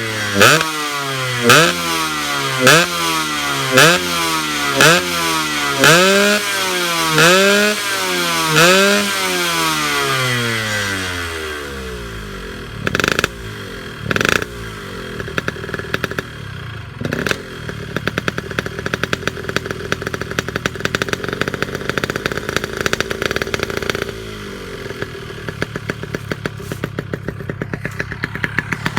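Yamaha RX-S 115 two-stroke single-cylinder engine breathing through an Altech C20RR aftermarket exhaust, blipped in quick throttle stabs about once a second, each a rise and fall in pitch. The revs then drop to idle, with three more single blips, and it settles into an uneven two-stroke idle.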